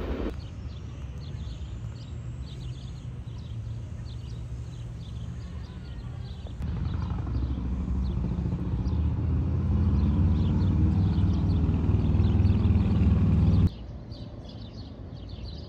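Birds chirping over a low steady hum. After a cut, a deep diesel rumble builds steadily louder as a train approaches, then breaks off suddenly near the end, leaving birdsong and hum again.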